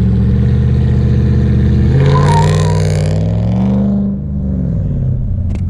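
A motor vehicle's engine running loudly, with its revs climbing and then dropping away about four seconds in.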